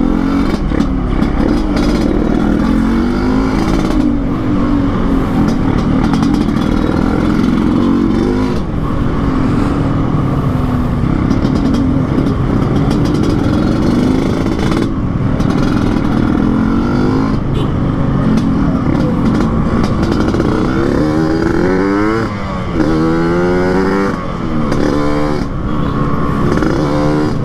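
Yamaha RX-King two-stroke 135cc single-cylinder engine, fitted with an under-belly expansion-chamber exhaust and an open air filter and tuned for a raspy 'ngorok' note, running steadily while ridden. In the last few seconds the revs climb and fall several times.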